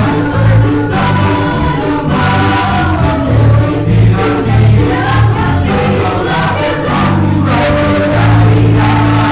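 Mixed church choir singing a hymn in several voice parts over a steady instrumental accompaniment with a sustained bass.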